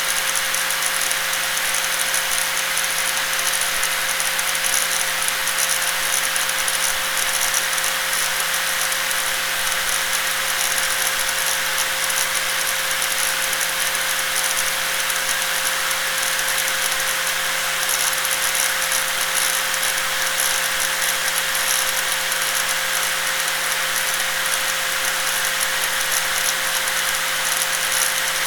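Electric angle grinder running steadily without let-up: a constant hissing rush with one unchanging pitched whine under it.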